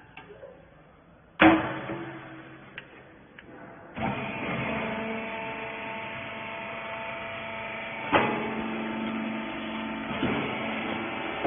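A loud bang, then about four seconds in a hydraulic rag baler's motor and pump start up and run with a steady hum. Two more sharp knocks sound over the running machine.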